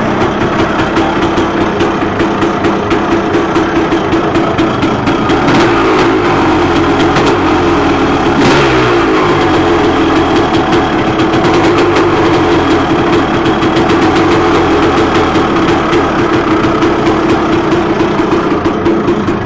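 2001 Honda CR250's single-cylinder two-stroke engine with an FMF Gnarly pipe, running on choke at its first start after a rebuild. It runs steadily and is revved briefly twice, around six and eight and a half seconds in.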